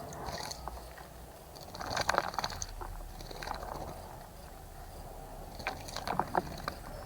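Small birds bathing in a shallow bird bath, flicking and splashing the water in two bursts: one about two seconds in and another near the end.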